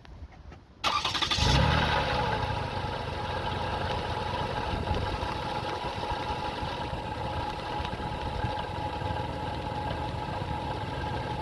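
Toyota Sienna's 3.3-litre V6 engine cranked by the starter and catching about a second in, then idling steadily.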